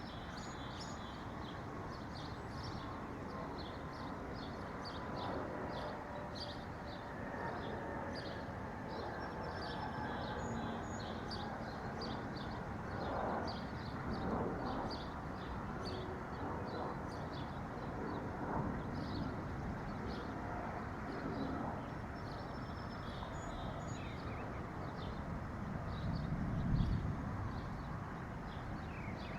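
Small songbirds chirping continuously, with many short high chirps overlapping, over a steady background noise. A single low thump comes near the end.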